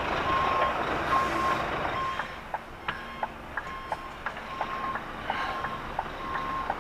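An articulated lorry's reversing alarm beeping, one steady tone repeating about once a second, over the truck's running engine, with a few scattered clicks.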